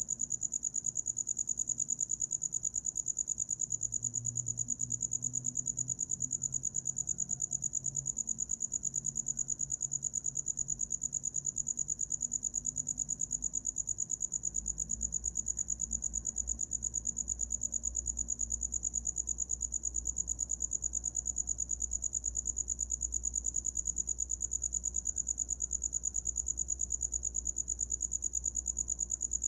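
A cricket chirping without pause: a rapid, evenly pulsed trill on one high pitch, with a faint low rumble underneath.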